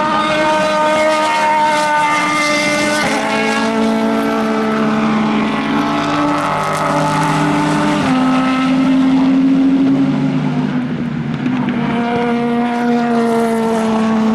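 Several endurance racing cars' engines running hard, overlapping, their pitches holding steady and then stepping up and down with gear changes.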